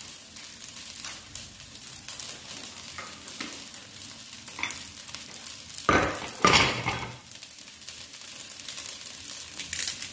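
Fried rice sizzling in a hot stainless wok, stirred with a wooden spatula: a steady hiss with scattered scraping strokes, and a cluster of louder scrapes and knocks about six seconds in.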